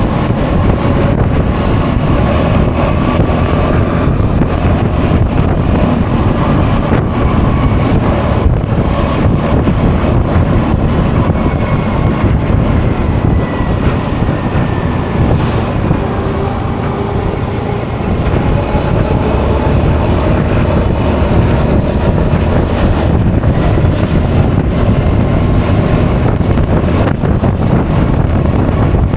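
Steady wind rush buffeting the action camera's microphone while riding a Honda Forza 350 scooter, with a faint engine drone underneath that slowly drifts in pitch.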